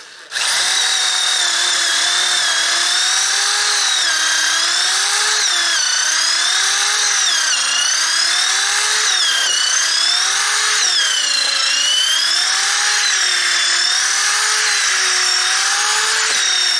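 Electric drill boring a bolt hole through timber with a long fluted bit, the motor running continuously. Its pitch rises and falls about once a second as the bit is worked in and out to clear the wood shavings.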